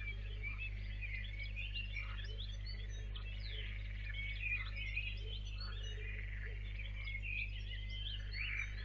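Many small birds chirping and calling over one another in short, quick notes, over a steady low hum.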